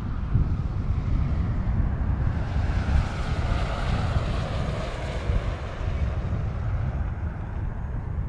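Wind buffeting the microphone, with the broad rushing roar of a jet airliner swelling and fading again a few seconds in.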